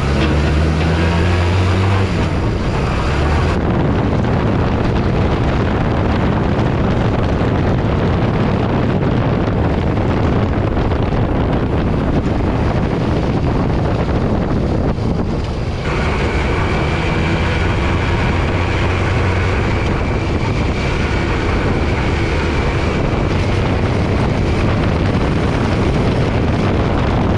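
Go-kart's swapped street-bike engine running under way, with wind noise on the microphone. The sound changes about 16 seconds in.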